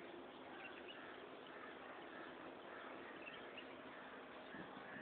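Faint, scattered chirping of small birds over a steady low hum.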